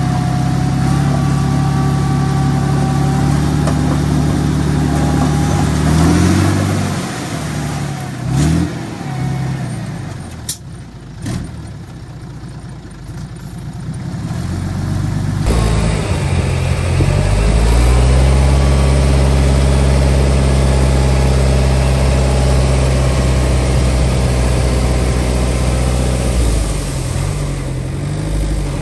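Heavy construction machinery's diesel engine running and revving, its pitch rising and falling, with a few sharp knocks in a quieter stretch; about halfway through it changes abruptly to a steady, deep engine note.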